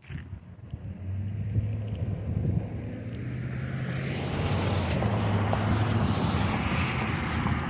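A car passing on the street: a steady low engine hum, with tyre and road noise that builds and is loudest about two-thirds of the way through.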